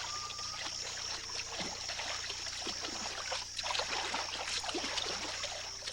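Shallow marsh water splashing and sloshing irregularly as a large animal wades through it.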